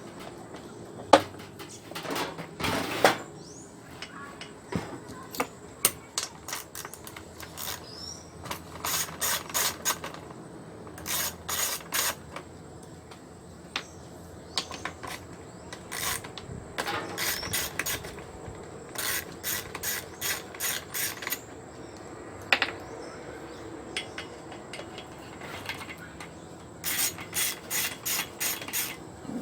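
A socket ratchet wrench clicking in repeated short runs of quick, even clicks, with tool handling and small knocks between the runs.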